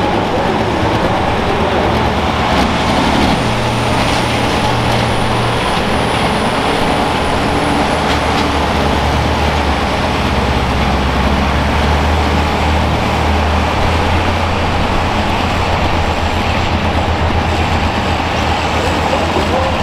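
Super farm pulling tractor's turbocharged diesel engine running loud and steady under power.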